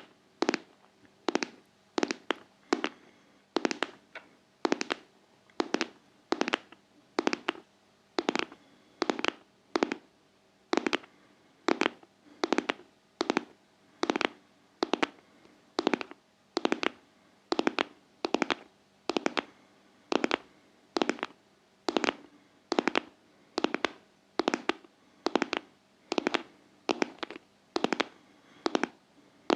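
Close-miked ASMR tapping on a heart-shaped object: sharp, crisp taps about two a second, some falling in quick pairs, kept up steadily.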